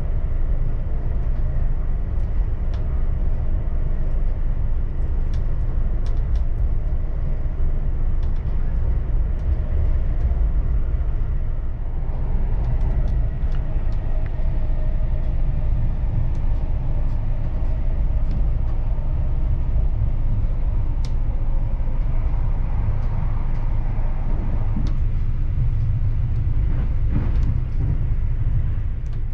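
Inside a British Rail Mk3 passenger coach running at speed: a steady, loud low rumble of wheels on rail, with scattered faint clicks.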